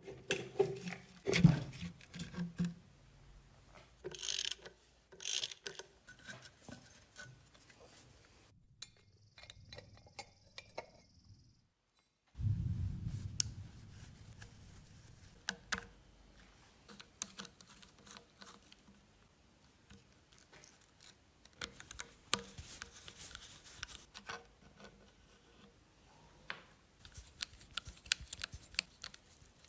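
Hand work on small parts: a run of short clicks, taps and scrapes, loudest near the start, with a brief break to silence about twelve seconds in.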